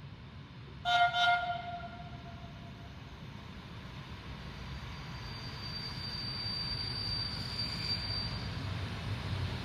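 ALn 668 diesel railcar pair sounding two short horn blasts about a second in, then running in with an engine-and-wheel rumble that grows steadily louder as it nears. A thin, high steady squeal sounds for about three seconds in the second half.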